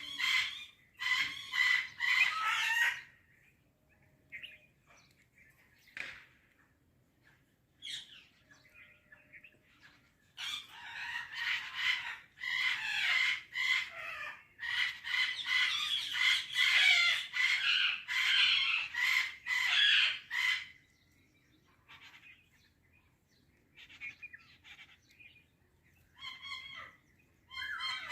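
Parrot screeching and chattering in repeated bursts: a few seconds of calls at the start, a long unbroken run of about ten seconds in the middle, and more calls near the end.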